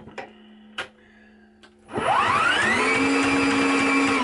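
Motorized drain snake working on a sink drain blocked by rust in old cast iron pipe: a few sharp clicks while the machine is stopped, then its motor spins up with a rising whine about two seconds in and runs steadily.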